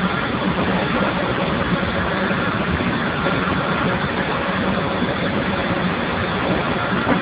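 Steam boiler running: a steady, dense mechanical noise with a low hum and faint steady tones above it, unchanging throughout.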